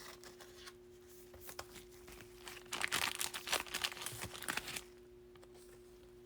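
Crinkling of a foil trading-card pack wrapper and cards being handled, with a burst of rustles and clicks about three to five seconds in. A faint steady hum runs beneath.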